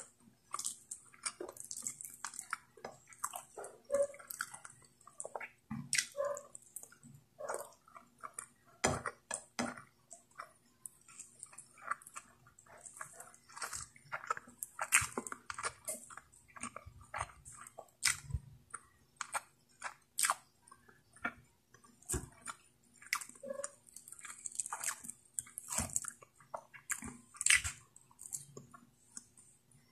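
Close-miked chewing and wet mouth sounds of a person eating saucy pork curry with rice by hand: irregular lip smacks, squelches and clicks.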